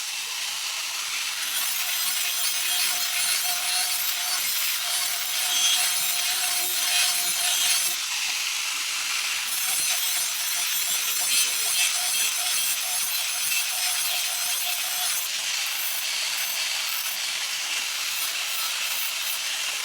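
Steel blade being sharpened against an abrasive: a continuous hissing metal scrape with a faint steady hum underneath.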